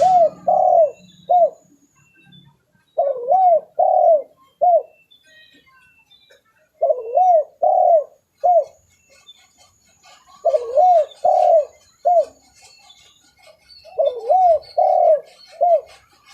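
Spotted dove (tekukur) cooing: five repeated phrases of three coos, the first two arching up and down and the last short, about every three and a half seconds. It is a recorded lure call (pikat) for drawing in wild doves.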